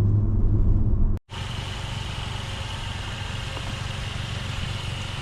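Straight-piped 2018 Mercedes-Benz CLA250's turbocharged four-cylinder exhaust idling steadily. It breaks off about a second in, then goes on more quietly.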